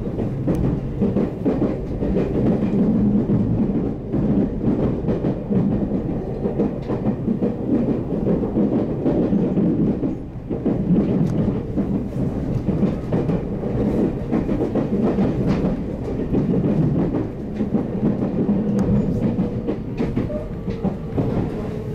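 Cabin noise of a JR Central 313 series electric train running on the rails: a steady rumble of wheels and running gear with scattered rail-joint clicks. A faint steady whine comes in during the later part as the train draws in toward its stop.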